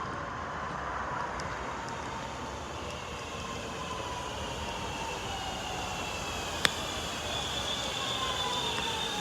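Electric train approaching, its whine of several tones slowly falling in pitch over steady rail rumble, growing louder near the end. A single sharp click about two-thirds of the way through.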